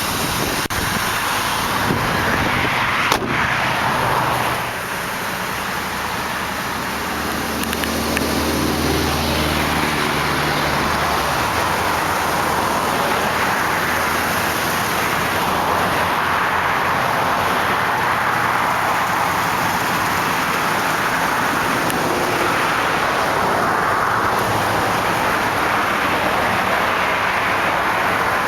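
Dodge Durango's Magnum V8 idling under a steady rush of highway traffic noise, with a single sharp click about three seconds in.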